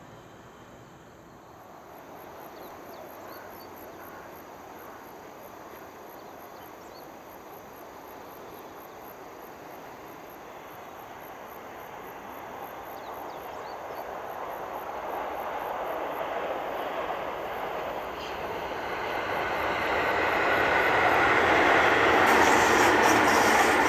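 E653 series electric express train approaching and running past, its rolling and wheel noise growing steadily louder to a peak near the end.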